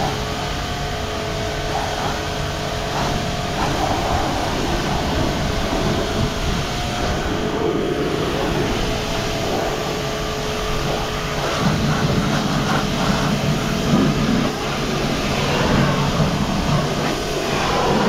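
Car wash water pump motor running with a steady hum, together with an even rush of water spray.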